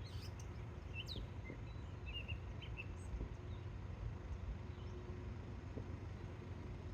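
Faint scattered bird chirps, a handful of short high calls in the first half, over a steady low outdoor rumble.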